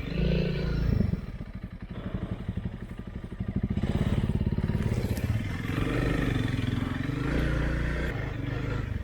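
Single-cylinder dual-sport motorcycle engine running at low revs off-road, easing off about a second in and pulling harder again a few seconds later.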